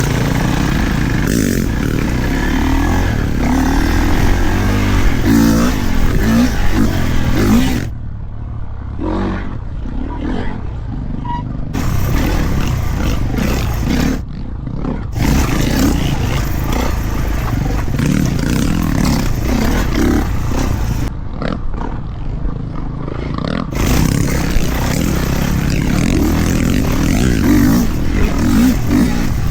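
Kawasaki KX450 four-stroke single-cylinder dirt bike engine being ridden hard, the throttle opening and closing, with three brief drops off the throttle.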